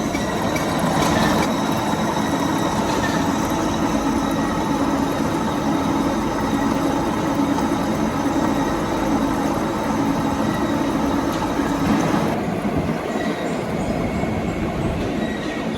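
Metal lathe running steadily with a continuous hum and whine, typical of turning a steel part. About twelve seconds in, the higher-pitched part of the noise drops away.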